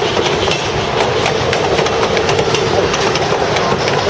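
Passenger train rolling past: a steady rumble with many quick, irregular clicks of wheels on the rails.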